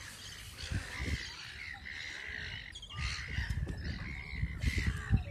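Birds calling repeatedly in short calls over open water, with a gusty low rumble on the microphone.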